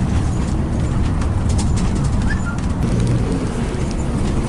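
Bus running on the road, a steady low rumble, with a few faint ticks and a brief squeak about two seconds in.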